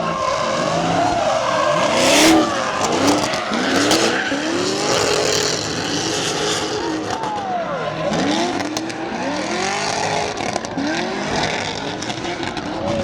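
Car engine revving hard in repeated rises and falls, about once a second, over the screech of tires spinning on pavement: a car doing donuts or a burnout. There is a louder surge of tire noise about two seconds in.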